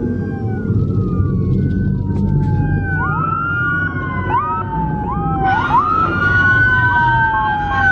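Several police sirens wailing at once, their pitches sweeping up quickly and falling slowly out of step with each other, over a steady low rumble.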